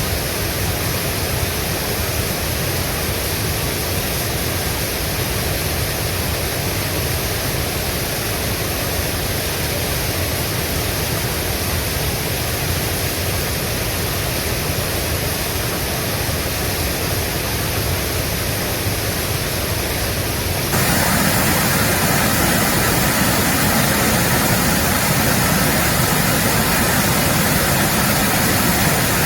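Mountain valley stream water rushing steadily. About two-thirds of the way through it jumps suddenly louder and brighter, then holds steady again.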